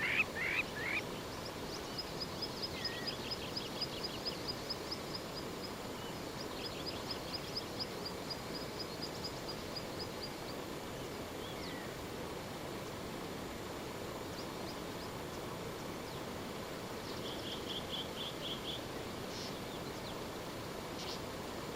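Birds calling over a steady outdoor background hiss. A loud repeated call dies away about a second in, then rapid high trills run for several seconds, and another short trill comes later.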